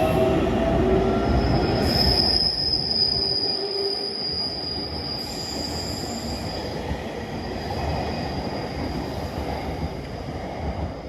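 JR Kyushu 813 series electric train running on the rails, a steady rumble of wheels with a thin, high wheel squeal held from about two seconds in, slowly fading.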